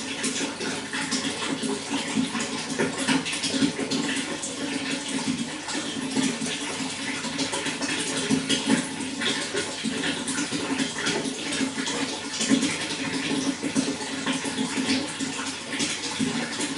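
Running water flowing steadily, full of small splashes and gurgles, with a low rushing undertone.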